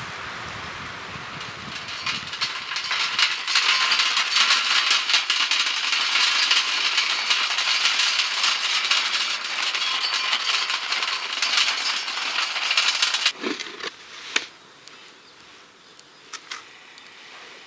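Campfire crackling close up, a dense run of sharp pops and snaps that cuts off abruptly about thirteen seconds in, after which only a few scattered crackles remain.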